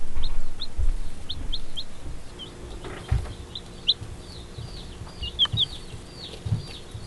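Baby meat chicks peeping: many short high chirps that grow thicker and overlap toward the end. There are a few low thumps, the loudest in the first second.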